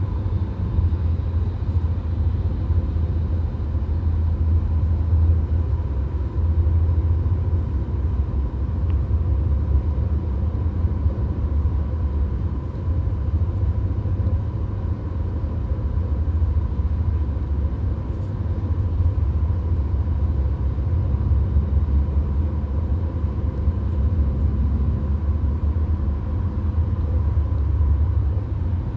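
Steady cabin noise of a VW Golf cruising on a motorway: a deep, even road and tyre rumble, with a faint steady whine above it.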